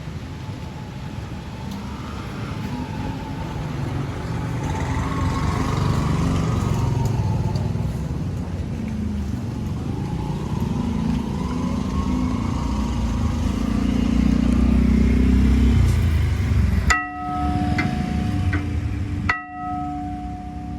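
Heavy vehicle rumble swelling and peaking around 16 seconds in. After an abrupt cut about 17 seconds in, the electronic warning alarm of a level crossing sounds with steady ringing tones, cut again briefly about 19 seconds in.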